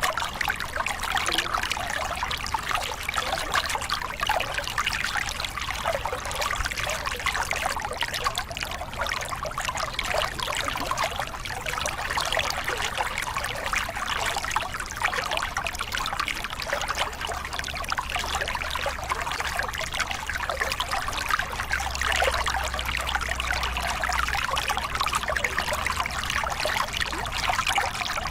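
Small river cascade: water spilling and splashing over rocks in a steady, continuous rush with fine bubbling detail.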